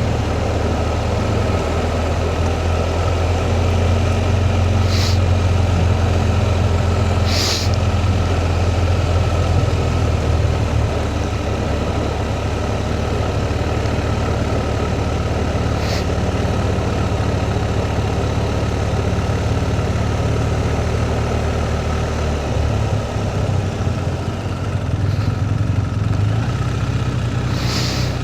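Motorcycle engine running steadily at low road speed, a constant low drone, with a few brief faint ticks over it.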